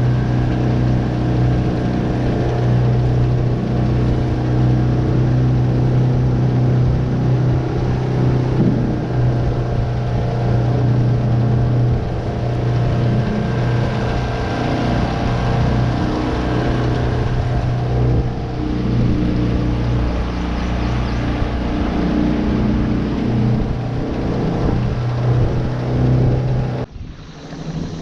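Tohatsu 9.8 four-stroke outboard motor running steadily under way, with water rushing along the hull. The sound drops away suddenly near the end.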